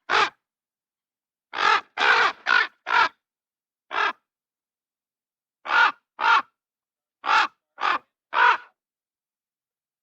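Raven calling: eleven short calls in clusters of one to four, with silence between them.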